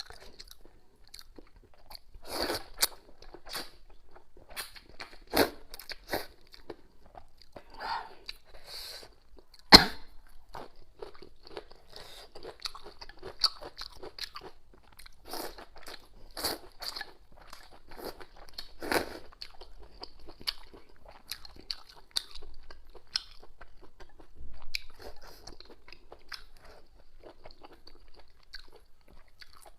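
A person eating noodle soup with pig intestines close to the microphone: chewing and wet mouth clicks, scattered irregularly, with one sharp louder sound about ten seconds in.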